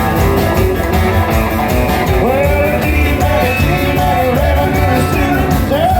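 Live rock-and-roll band playing an instrumental passage: electric guitar with notes bent up in pitch over bass and a steady drum beat.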